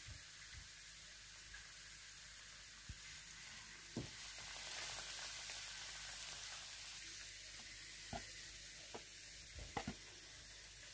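Breadcrumbed chicken nuggets frying in hot oil in a pan: a steady, faint sizzle that swells a little around the middle. A few soft knocks come through the sizzle.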